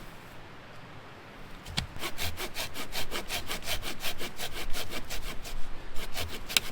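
Hand saw cutting through wood in quick, even strokes, starting about two seconds in, with a brief pause and a few more strokes near the end.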